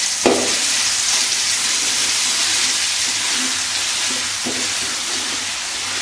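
Ground shallot and garlic spice paste frying in oil in a stainless steel wok: a steady sizzle as a metal ladle stirs and scrapes it around the pan, with one sharp clink just after the start.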